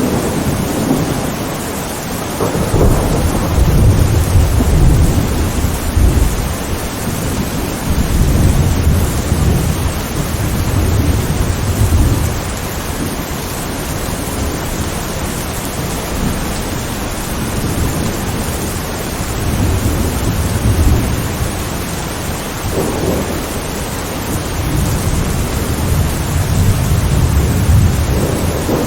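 Rainstorm: steady rain hiss with low thunder rumbles swelling and fading several times.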